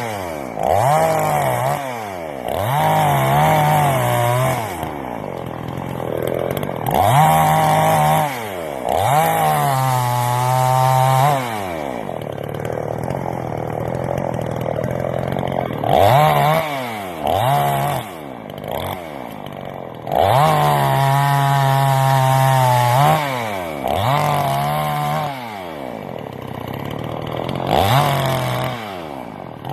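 Two-stroke gas chainsaw repeatedly revved from a steady idle up to full throttle and let back down, about eight times, with a few stretches of steadier high-speed running in between.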